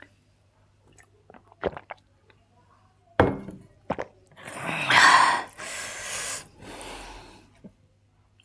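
Close-miked eating sounds: a few small clicks, a knock about three seconds in, then a loud breath followed by a softer one.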